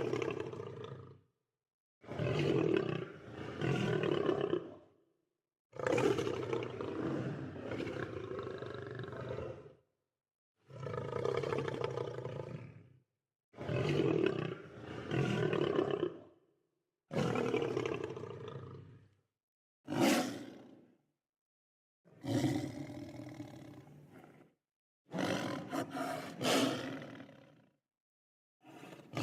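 Lion roaring: about nine separate loud, deep roars, each one to four seconds long, with dead silence between them.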